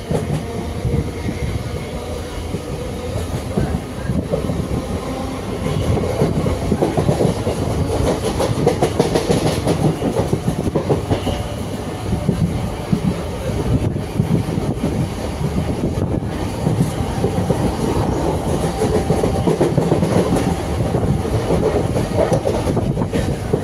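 Suburban electric local train running at speed, heard from its open doorway: steady rumble of the wheels with a clickety-clack over the rail joints, a little louder from about six seconds in.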